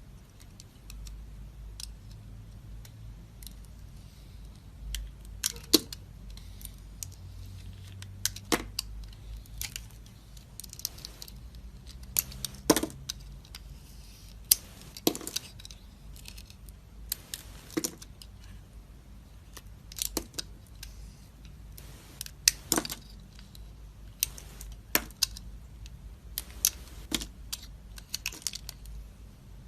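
Knife cutting into dry soap: crisp crunches and snaps at irregular intervals, the strongest coming every two to three seconds, over a faint low hum.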